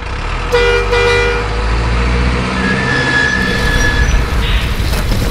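Truck horn giving two short toots in quick succession over a steady low engine rumble, followed by a thin high steady tone lasting about a second and a half.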